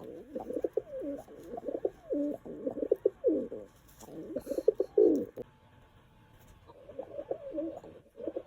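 Pet pigeon cooing in repeated warbling phrases, with a pause of about a second after five seconds before the cooing starts again.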